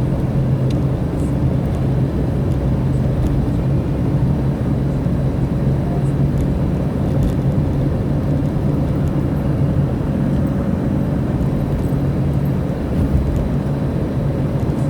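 Car driving along a road, heard from inside the cabin: a steady engine drone with tyre and road noise.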